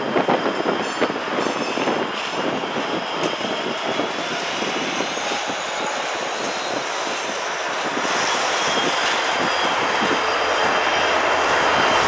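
Two Canadian Pacific EMD SD60 diesel-electric locomotives, each powered by a 16-cylinder two-stroke diesel, pulling a long freight train past, with engine noise and wheels on the rails. The sound grows steadily louder in the last few seconds as the locomotives come close.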